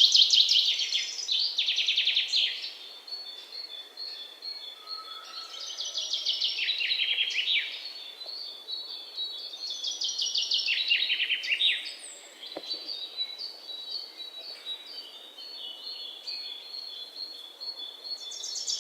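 A songbird singing a repeated song: fast runs of notes that fall in pitch, each phrase lasting two to three seconds and coming back every four to five seconds. A thin, steady high call runs beneath.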